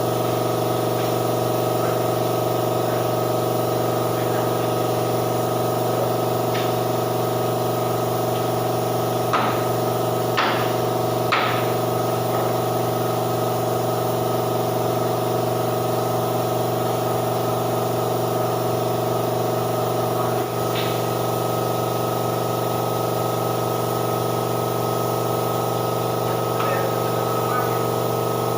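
Air compressor for spray painting running steadily, a constant hum with a hiss over it. Three sharp clicks come about ten seconds in, and another one near the two-thirds mark.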